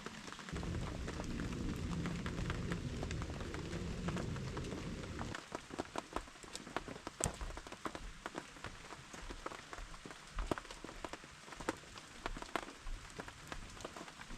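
Rain falling, with many sharp, irregular drop ticks over a steady hiss. For the first five seconds a low rumble lies under it, then stops abruptly.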